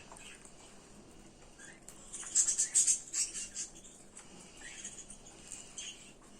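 Small songbirds chirping in quick, high-pitched bursts, with the loudest flurry about two and a half seconds in.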